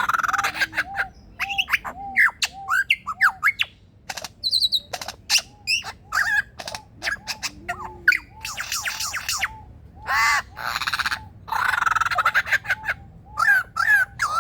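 Male superb lyrebird singing a mimicry medley: quick runs of short repeated notes mixed with sharp clicks, whistled glides and two longer harsh, rasping calls about nine and twelve seconds in.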